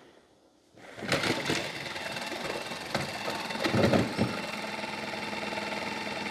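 Narwal Freo Z Ultra robot vacuum's self-cleaning dock starting its mop-rinse cycle: pump and motor start about a second in with some clatter, then run with a steady mechanical hum.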